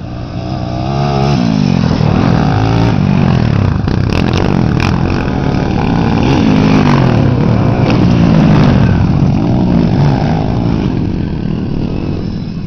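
Motocross dirt bikes racing, engines revving up and dropping back in pitch again and again with each gear change. They build up about a second in, are loudest around eight seconds, and ease off near the end.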